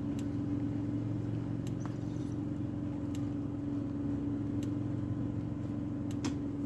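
Steady mechanical hum of an engine or motor running with a constant drone, with a few faint clicks over it.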